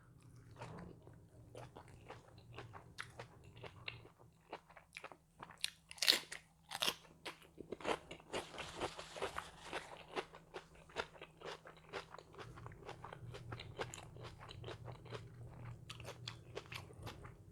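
A person chewing and biting crunchy food close to the microphone: a long run of short, crisp crunches and mouth clicks, louder around the middle.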